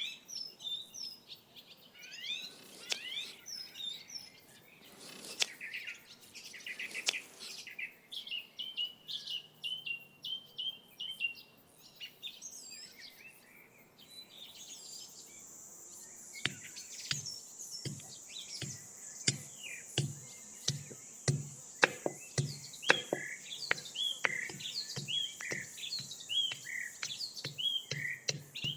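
Small birds chirping repeatedly. About halfway through, a steady high hiss joins in, and then a run of sharp knocks follows, about two a second.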